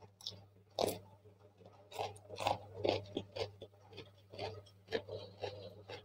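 Close-up chewing of a mouthful of food, with a series of irregular crisp crunches, over a faint steady low hum.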